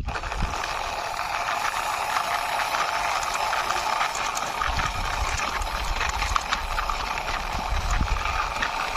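Toy fire truck's wheels rolling and scraping along a rough outer wall, a steady gritty rasp scattered with small clicks, over a low rumble.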